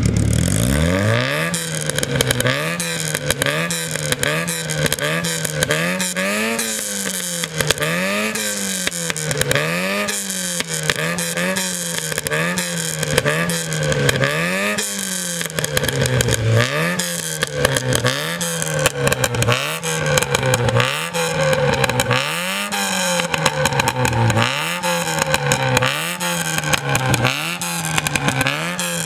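Yugo 55 four-cylinder engine revved in short throttle blips, about one a second, its pitch rising and falling back each time. Sharp crackles and pops come from the exhaust as the revs drop.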